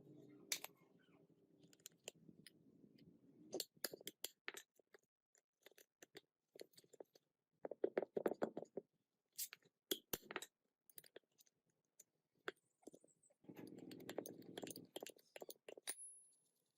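Gearbox parts and hand tools being handled: scattered sharp metallic clicks and knocks, with short stretches of scraping or scrubbing near the start, about eight seconds in and again around fourteen seconds.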